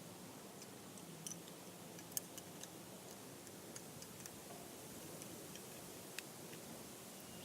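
Wood campfire crackling: faint, irregular sharp pops over a low steady hiss, with the loudest pops about 1.3, 2 and 6 seconds in.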